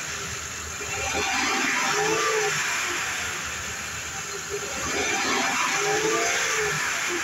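2005 Honda Pilot's 3.5-litre V6 running under the open hood, revved twice, each time rising in pitch and falling back toward idle.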